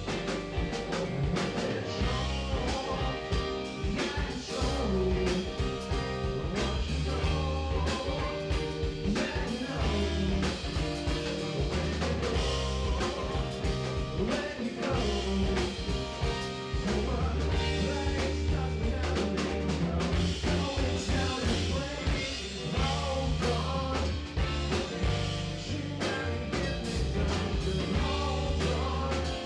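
A live band playing a soul-jazz song with guitar, bass and drums.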